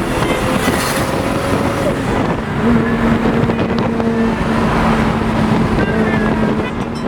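Turbocharged Supra with a 4-inch straight-pipe exhaust cruising, its engine holding a steady drone, with wind and road noise rushing through the open convertible cabin.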